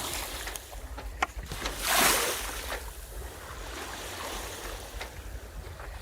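Water rushing and splashing along a sailboat's hull as it sails, with wind rumbling on the microphone; a louder wave splash swells and fades about two seconds in, and a few short sharp clicks sound, one a little after a second in.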